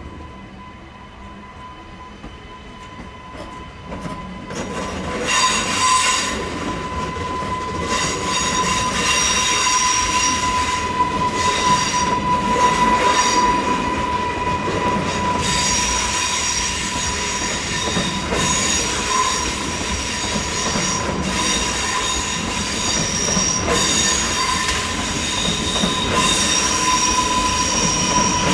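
SBB RABe 501 Giruno electric multiple unit departing slowly across the station tracks. It grows louder about four seconds in as the train comes close. High-pitched wheel squeal comes and goes over a steady high tone, a low rumble and occasional clicks from the wheels over the rail joints.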